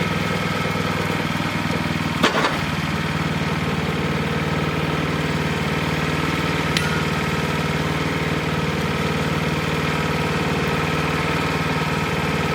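Wood-Mizer LX25 sawmill's engine running steadily, with one sharp knock about two seconds in and a faint tick around seven seconds.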